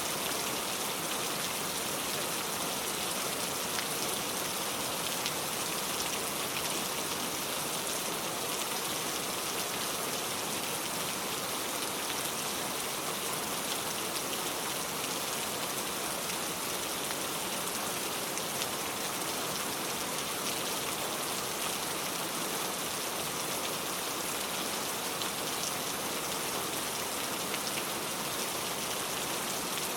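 Steady rain falling, an even hiss of many small drops on a surface, without change in level.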